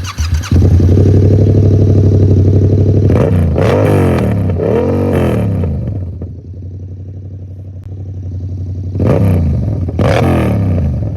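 Motorcycle engine running loud through a $200 aftermarket exhaust with its baffle removed. It runs high and steady, then is blipped in three quick revs that rise and fall about three to five seconds in, settles to a lower idle, and is revved twice more near the end.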